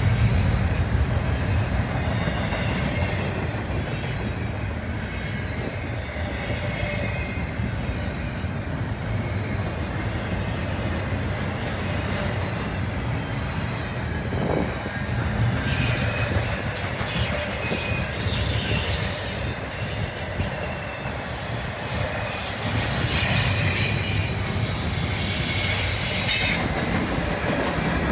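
Freight train's double-stack intermodal well cars rolling past with a steady low rumble of wheels on rail. High-pitched wheel squeal comes in on and off over the second half.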